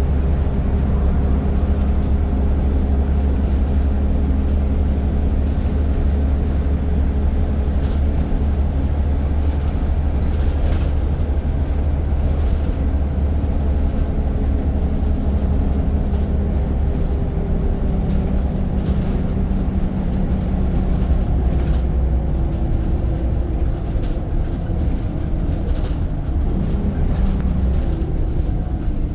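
Scania N94 single-decker bus heard from on board while under way: a steady, loud low engine drone with light rattles from the bodywork. The engine note shifts slightly in pitch partway through and falls near the end.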